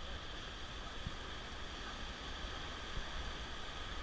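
Steady rushing of river water around a paddled raft.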